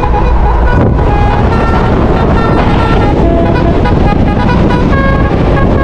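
A vehicle's musical horn sounding a string of short notes at changing pitches, over loud engine and road noise.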